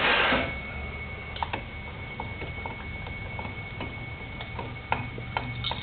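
A chop saw's tray sliding out with a short scrape, followed by scattered light clicks and taps as the saw's parts are handled.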